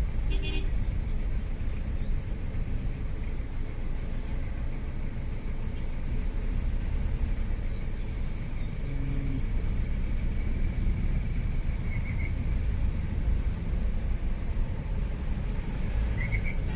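Vehicle travelling along a city road: a steady low rumble of engine and road noise.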